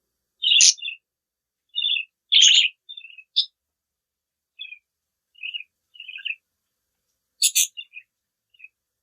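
Pet budgerigar chirping: a string of short, high chirps with brief gaps between them, the loudest about half a second in, about two and a half seconds in, and near the end.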